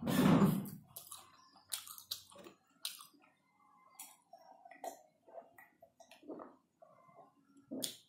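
Close-up mouth sounds of a person eating and drinking: chewing with small wet clicks, and sips from a glass of juice about four seconds in. A short, loud burst at the very start is the loudest sound.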